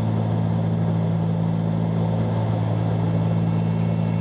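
Steady drone of a Cessna 310Q's twin six-cylinder piston engines and propellers in cruise, heard inside the cabin: a constant low hum with an even rushing noise over it.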